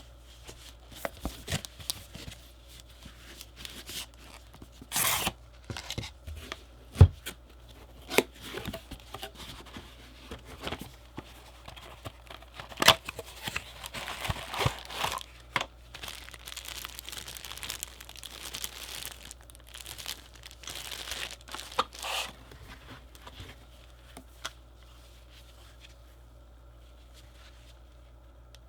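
Packaging being opened and handled by hand: tearing and crinkling of wrapping with scattered sharp clicks and knocks, the loudest knock about seven seconds in. The handling stops for the last few seconds.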